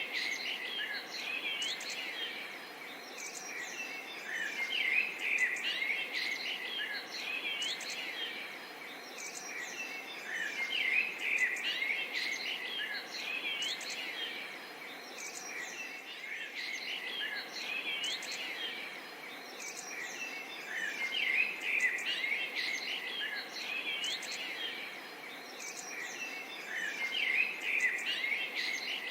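A forest chorus of many birds chirping and calling at once, with short, quick chirps and glides overlapping constantly over a steady background hiss, the chorus swelling and easing every few seconds.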